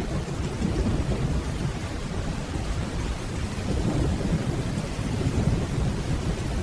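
Steady rainfall under a continuous low rumble of distant thunder, with no sharp claps.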